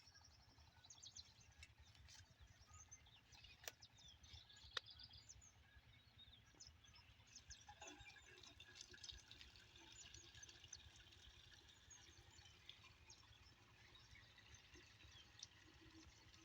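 Near silence: faint bird chirps in the background, with two light clicks about four seconds in.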